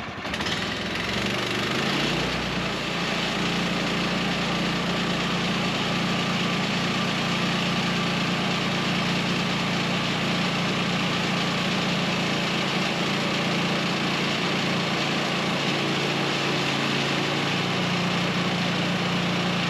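Sawmill's small gasoline engine coming up to speed about a second in and then running steadily, with a slight rise in pitch near the end.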